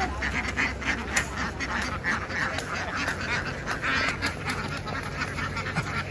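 A large flock of domestic ducks quacking together in a dense, continuous chorus, with scattered clicks and knocks throughout.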